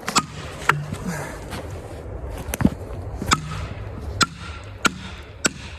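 Felling wedges being driven into the back cut of a large red oak: about seven sharp strikes, irregularly spaced, each with a short ring.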